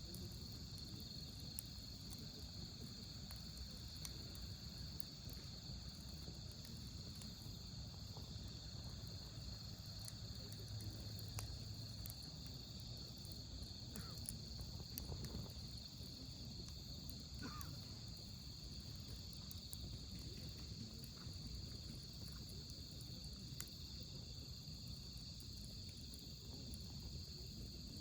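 Wood fire crackling with sparse small pops and ticks, over a steady high chorus of night insects trilling.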